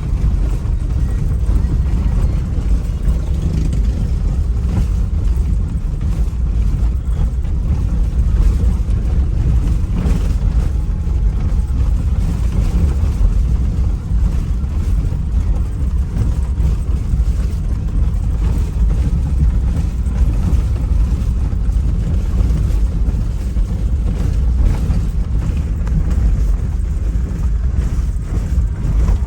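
A small motorboat's engine running steadily underway: a continuous low rumble with no change in pace.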